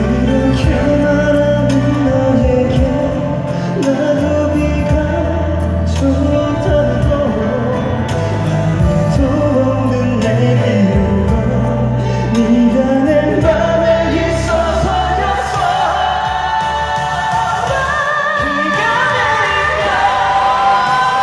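Live K-pop ballad performance: male singers' voices over the band's backing track through the concert PA, heard from within the audience. Higher sung lines come in near the end.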